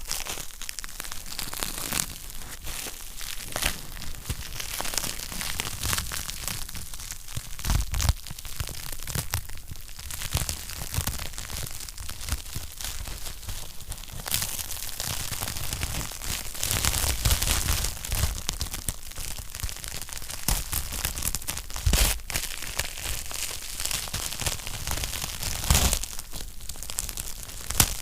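Wood fire crackling in a fireplace: a continuous dense patter of small irregular crackles, with a few sharper, louder pops scattered through.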